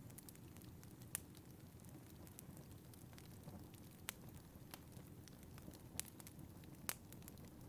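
Wood fire in a fireplace crackling faintly, with a few sharp pops over a low steady rumble of wind.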